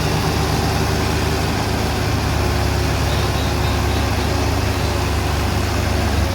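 Tractor engine running steadily and loudly, a deep drone that gets heavier about two seconds in.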